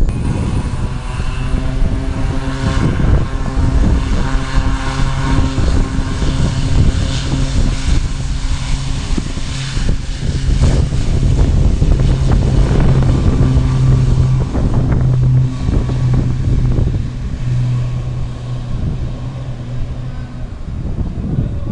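Airplane engine running, a steady low drone with a hum over a broad rumble, fading out near the end.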